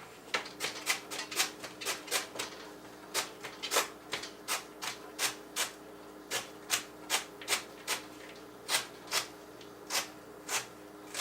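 Kitchen knife chopping celery sticks on a cutting board: a steady run of sharp taps, about two or three a second, with a couple of brief pauses. The knife is dull.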